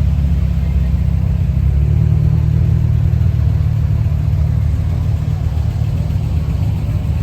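A car driving: a steady low engine and road rumble that grows a little louder about two seconds in, then eases off.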